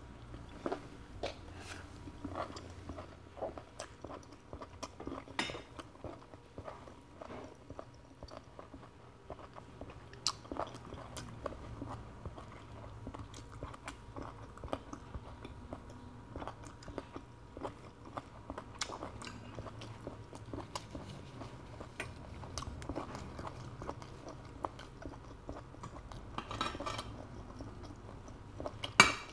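Close-up chewing of cooked conch meat: wet mouth smacks and irregular small clicks. Near the end, a few louder clatters as a conch shell is picked up from the plate.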